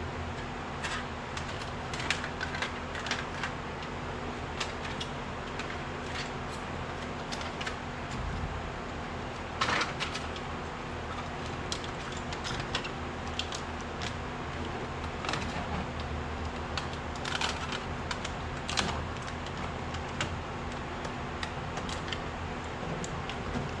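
Irregular light clicks and taps, a few at a time, over a steady low hum, with a louder cluster of clicks about ten seconds in.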